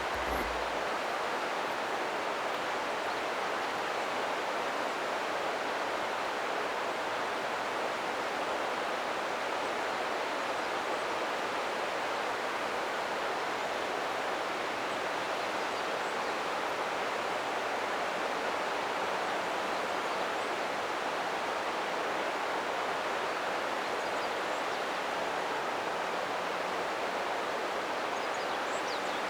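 Steady rushing of a river's flowing water over rocks.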